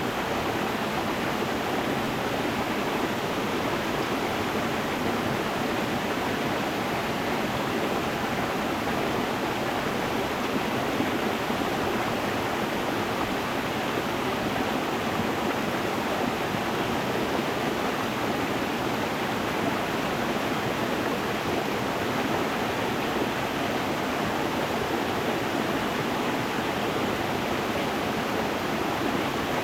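Stream water running over stones: a steady, unbroken rushing.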